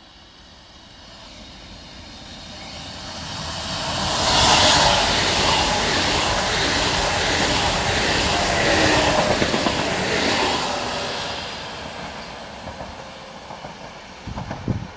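PESA Dart (ED161) electric multiple unit passing by. A rushing noise builds over a few seconds, stays loud for several seconds as the train goes past, then fades, with a few sharp wheel knocks near the end.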